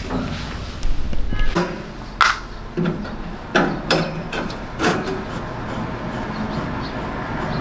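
Irregular knocks and clatters of hard objects being handled, about seven in the first five seconds, over steady background noise.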